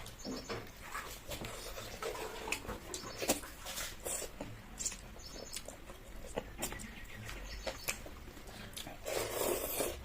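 Close-up eating sounds: wet mouth smacking and chewing, with small irregular clicks, and a louder, noisier stretch near the end.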